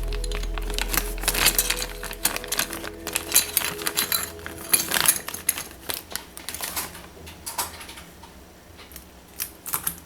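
Rapid, irregular clicking and rattling of small hard plastic parts being handled, as a model airplane and its packaging are unboxed. Background music fades out over the first couple of seconds.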